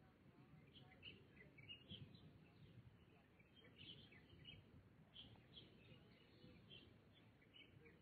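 Small birds chirping faintly: many short, high chirps overlapping throughout, over a steady low background rumble.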